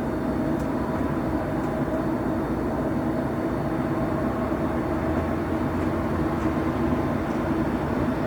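Train station ambience: a train running steadily with a continuous low rumble and hum, with a few faint clicks.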